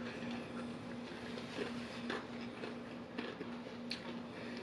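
A person chewing fried chicken with the mouth closed: faint wet mouth clicks and small crunches every half second or so. A faint low hum runs underneath.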